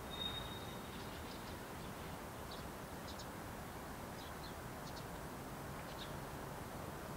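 Small birds chirping: a short thin whistle near the start, then brief high chirps every second or so, over a steady low rumble.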